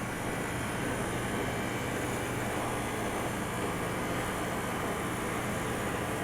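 Ice cream machine running with a steady mechanical hum and whir, no longer leaking after the repair.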